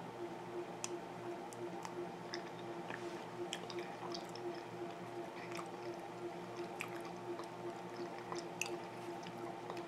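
A person chewing a mouthful of soft pot pie with the mouth closed: scattered faint wet clicks and smacks over a steady low hum.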